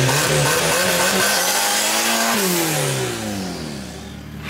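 Blue VW Gol drag car's engine revving: the pitch climbs for about two seconds, then falls away as the revs drop.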